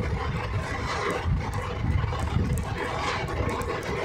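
Running noise of a moving passenger train heard from an open coach doorway: a steady rumble of wheels on the track, with wind blowing across the microphone.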